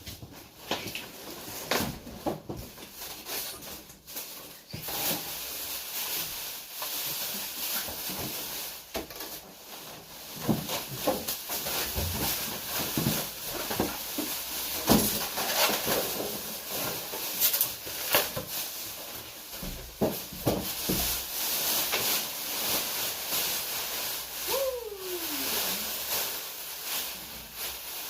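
Handling noises from unpacking a refrigerator: rustling with scattered knocks and clicks over a steady hiss, and a short falling squeak near the end.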